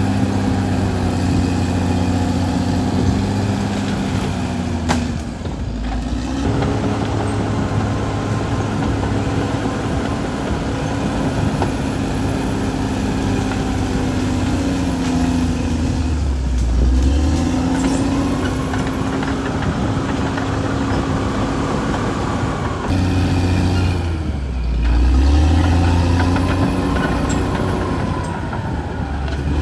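Caterpillar D6R XL bulldozer's diesel engine running under load. Three times, about 5, 16 and 24 seconds in, the engine note sags with a deep rumble and then climbs back up as the machine pushes.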